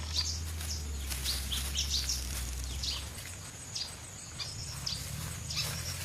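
Birds chirping, many short high chirps in quick succession, over a low rumble that fades about halfway through.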